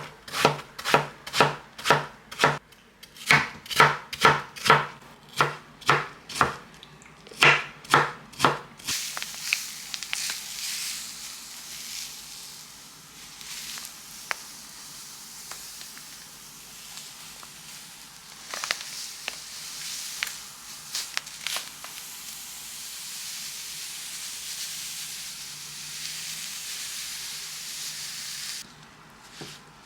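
Kitchen knife chopping on a cutting board, about two strokes a second, for roughly the first nine seconds. After that there is a steady hiss that lasts until shortly before the end.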